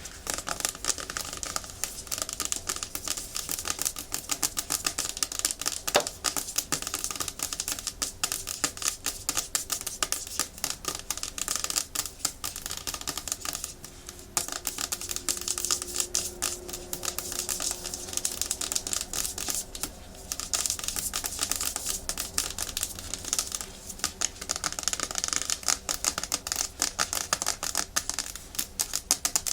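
Natural fingernails tapping fast and hard on a hard plastic surface, a dense rapid clatter of clicks that thins briefly about halfway through.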